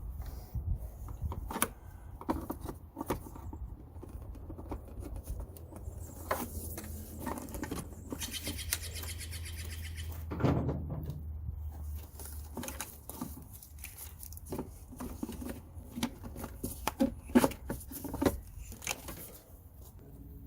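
Hand tools and plastic car parts being handled: scattered clicks, taps and rattles as clips and trim pieces are worked loose, with a low hum under the first half.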